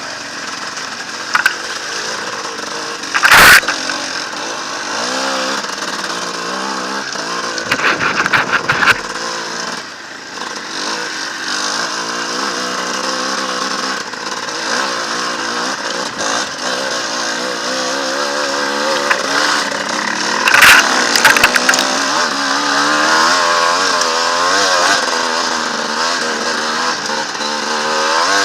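Enduro motorcycle engine revving up and down as it works through mud, the pitch rising and falling constantly. Several sharp, loud knocks cut in, one about three seconds in, a cluster around eight seconds and another about twenty seconds in.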